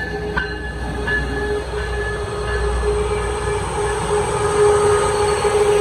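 Coaster commuter train running on the rails: a steady low rumble with a few sharp wheel clicks in the first second or so, and a steady tone that grows louder toward the end.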